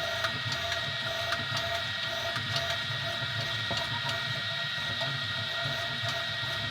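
Easythreed X2 desktop 3D printer running a print: a steady whine from its stepper motors over a low hum, with light ticks scattered throughout.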